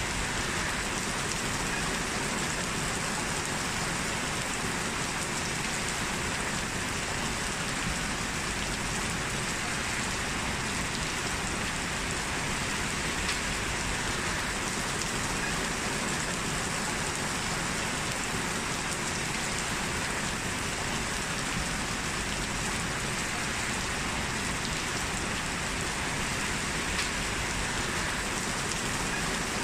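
Steady heavy rain falling and pattering on surfaces, an even hiss with the odd distinct drop tick.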